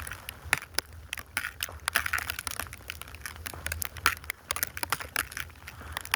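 Snow crunching and crackling close up, a dense, irregular run of sharp crackles over a low rumble.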